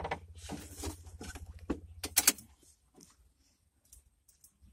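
Car engine running with a low, even throb, with several short clicks and knocks from inside the cabin as the car is put into first gear; the engine sound drops away about two and a half seconds in.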